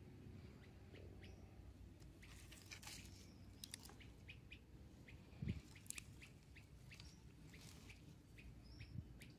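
Faint, scattered bird chirps over a quiet background, with one low thump about halfway through.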